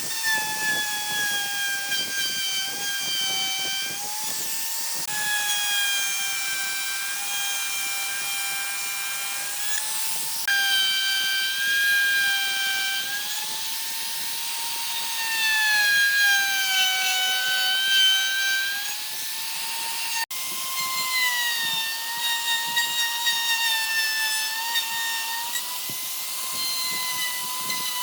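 Electric power tool motor running with a steady high whine and rough cutting noise under it, its pitch sagging and recovering as the tool is loaded; the sound breaks off abruptly about 20 seconds in and resumes a little higher.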